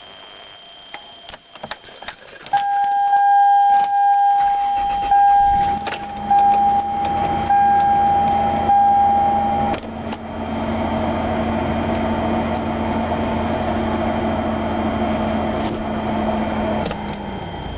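Car being started and left running: a steady electronic warning chime sounds, the engine catches a few seconds in and then idles steadily, and its note drops near the end.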